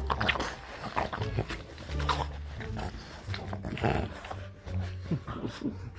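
Boston Terrier puppy making a string of short, excited vocal noises, several of them quick falling cries toward the end.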